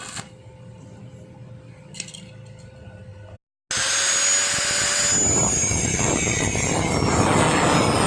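A faint steady hum with a couple of clicks, then after a cut a power tool running loudly: a dense, harsh noise with a steady high whine.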